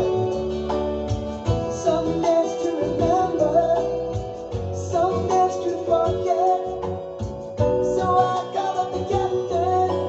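Acoustic guitar playing, with a voice singing a melody over it.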